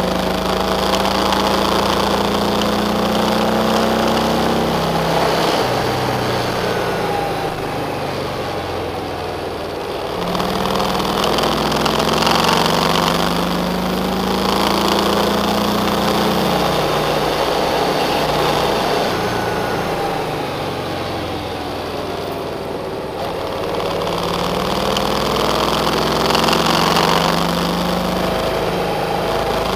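Car engine heard from inside the cabin while driving. Its note repeatedly climbs and then drops in pitch, about every ten to fifteen seconds, as the revs rise and fall.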